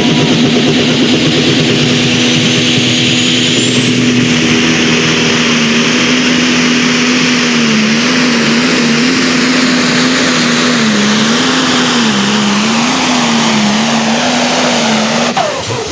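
A competition pulling vehicle's engine running flat out under load. Its pitch holds steady at first, then wobbles up and down over the second half, and falls away sharply as the engine shuts down about a second before the end.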